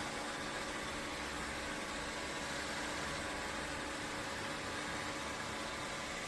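Dreame L10s Ultra robot vacuum running, a steady whirring hiss from its suction fan with a faint steady hum.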